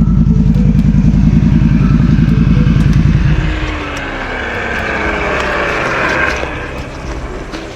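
BRP Outlander 650 ATV's V-twin engine held at high revs with a fast low pulsing beat, as the quad sits stuck in a bog. About three and a half seconds in, the engine note drops away, leaving a hissing wash and a faint falling whine.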